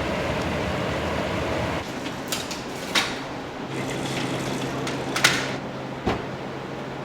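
Udon shop kitchen noise: a steady rushing noise that drops away about two seconds in, then a low steady hum with three sharp knocks or clatters of kitchen utensils.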